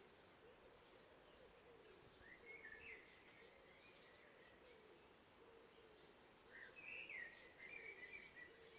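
Faint songbird song in woodland: two short warbled phrases, one about two seconds in and a longer one near the end, over a faint, continuous low warble and a steady background hiss.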